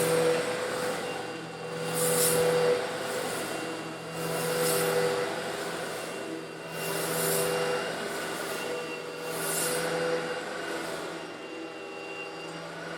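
Old Eureka vacuum cleaner running with a steady motor hum while sucking up small coarse stone granules, a little larger than sand. A hissing rush of grit swells and fades about every two and a half seconds, then evens out near the end.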